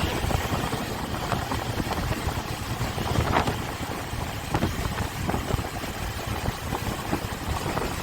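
Motorcycle engine running steadily, with a constant low rumble.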